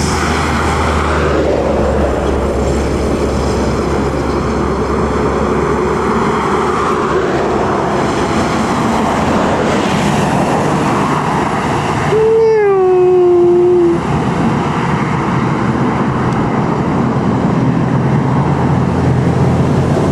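Heavy road vehicles passing at speed, a steady rush of engine and tyre noise. About twelve seconds in, a vehicle horn sounds for nearly two seconds, dropping in pitch as it goes.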